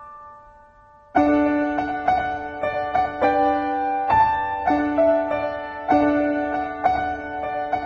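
Background piano music: a held chord fades for about a second, then a new phrase of steady piano notes comes in and carries on.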